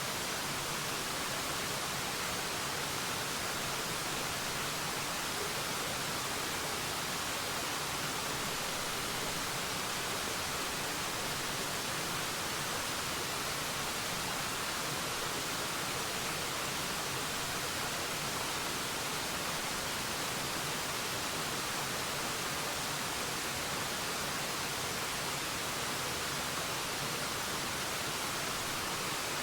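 Forest waterfall: a steady, unbroken rush of falling water with a bright hiss and little low rumble.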